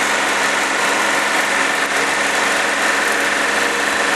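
John Deere 790 compact tractor's three-cylinder diesel engine running steadily while the tractor drives along.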